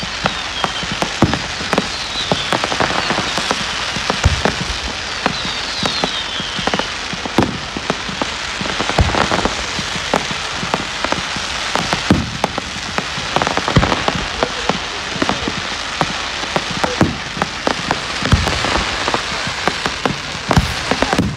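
Fireworks going off: a dense, steady crackle with many sharp bangs throughout, and a few falling whistles in the first several seconds.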